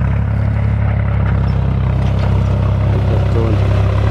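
John Deere tractor's engine running at a steady speed, a low even hum with no change in pitch.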